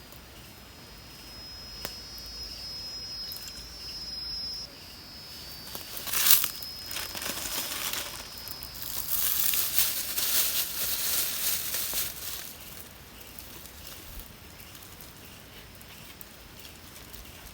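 Rustling and crinkling, with one sharp snap or knock about six seconds in and the rustling heaviest for several seconds after it. A thin, steady high whine sounds in the first few seconds.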